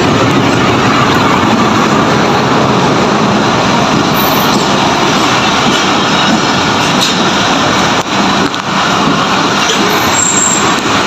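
A train running along the track: loud, steady wheel and carriage noise, with a brief drop in level about eight seconds in.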